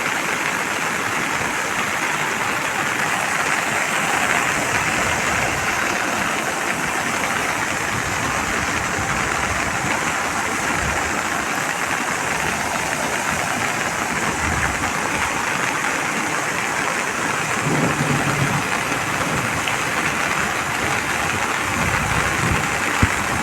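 Water rushing steadily, a continuous loud wash, consistent with flood water pouring through a pond's breached embankment after heavy rain. A brief low hum rises through it about three-quarters of the way in.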